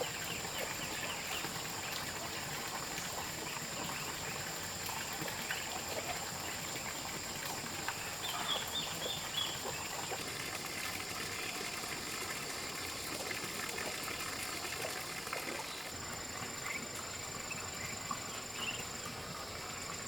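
Steady outdoor background noise with a thin, high steady tone and a few brief chirps about halfway through.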